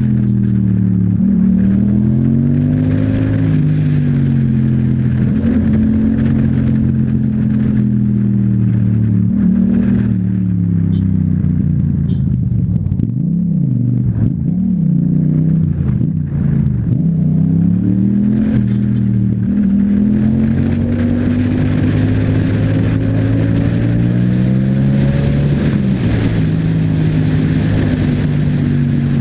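Yamaha MT-07's 689 cc parallel-twin engine through an Akrapovic exhaust, accelerating and easing off over and over while riding. The engine speed drops sharply and picks up again a few times about halfway through.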